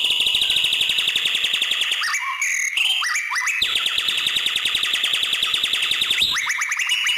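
White-rumped shama (murai batu) singing: a long fast trill of repeated notes, then a burst of varied whistled glides about two seconds in, then another long fast trill. It ends in a run of quick falling notes.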